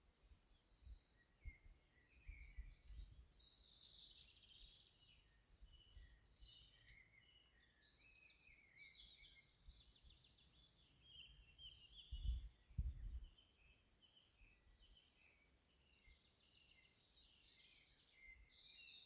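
Faint birdsong: several birds chirping and trilling throughout. A few low, dull thumps sound about twelve to thirteen seconds in, the loudest moment.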